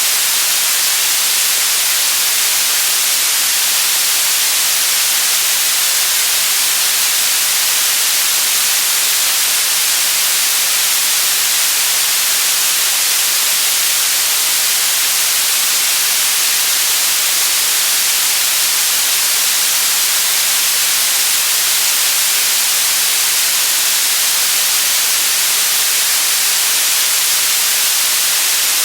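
Continuous white noise: a steady, loud, even hiss with no change in level or character.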